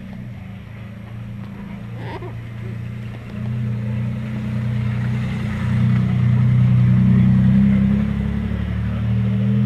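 Motorcycle engine running close by, getting louder from about three seconds in and loudest a little after the middle.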